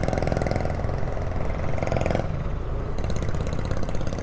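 Motorcycle engine idling steadily with a fine, even pulsing. A mid-pitched hum laid over it cuts off suddenly about two seconds in.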